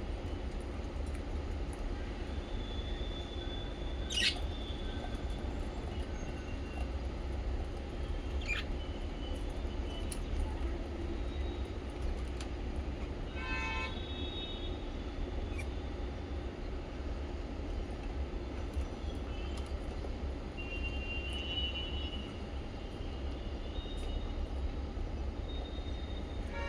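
Pet budgies and lovebirds chirping now and then: short high chirps, a couple of quick sweeping calls, and one harsh, buzzy call about halfway through. Under them runs a steady low rumble.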